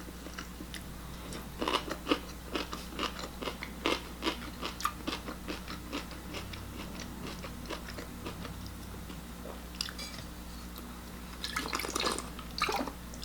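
A person chewing and crunching kimchi close to the microphone, with many short crisp crunches over the first five seconds or so, a quieter stretch, then more chewing from about ten seconds in.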